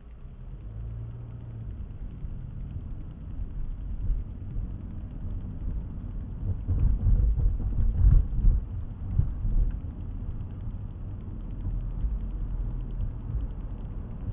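Low rumble of a car driving, heard from inside the cabin: engine and road noise. It grows louder over the first few seconds, with a stretch of heavier, uneven rumbling about halfway through.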